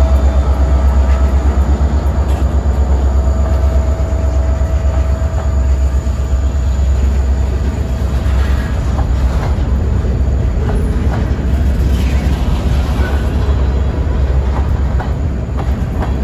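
EMD SD40-2 diesel locomotive passing close by with a deep, steady engine rumble, then freight cars rolling past, their wheels clicking over the rail joints from about halfway through.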